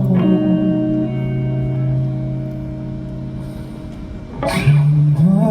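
Live band music in a gap between sung lines: guitar over a held low bass note, growing quieter, then a brief burst of noise about four and a half seconds in as the band comes back in louder.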